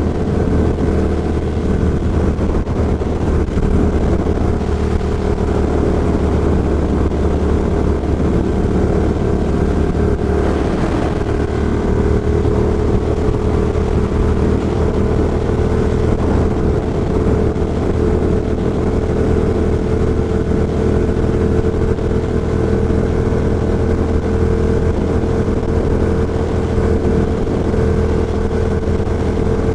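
Ducati Diavel's 1198 cc L-twin engine, breathing through an Austin Racing GP2 aftermarket exhaust, running at a fairly constant speed under way, heard from a microphone inside the rider's helmet. The engine note is steady with little change in pitch.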